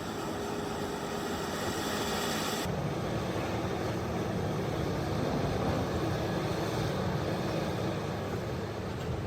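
Heavy excavator engine running steadily under load. About three seconds in the sound changes abruptly to a lower, heavier engine note.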